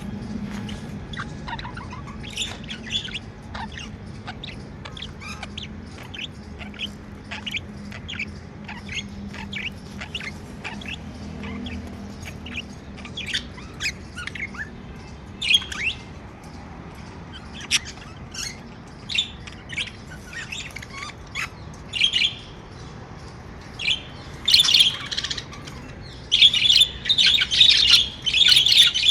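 Pet budgerigars chirping in quick, high, scattered chirps, which become a dense, louder chatter in the last few seconds.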